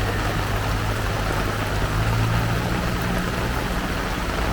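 Heavy rain pouring down steadily, with a low engine hum from a vehicle that grows louder about two seconds in.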